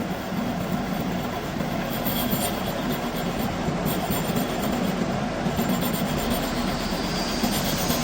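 Metal-working lathe running, a steady mechanical drone.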